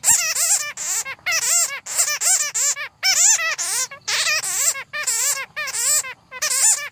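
Bats squeaking and chattering: runs of quick, high, arched chirps that come in bouts of about half a second to a second, with short gaps between them.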